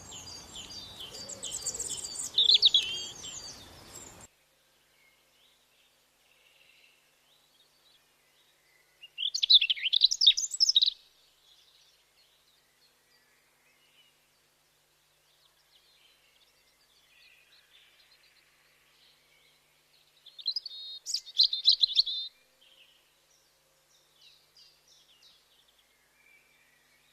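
Small songbirds chirping and singing: a busy stretch of high chirps over background noise that stops abruptly about four seconds in, then two loud bursts of rapid chirping song, about ten seconds in and again about twenty-one seconds in, with faint calls between.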